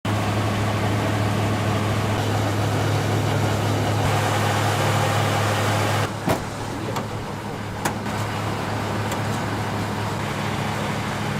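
Ka-27M coaxial-rotor helicopter running: a loud, steady mechanical noise with a constant low hum under it. About six seconds in the sound drops a little and changes, and two short sharp clicks follow.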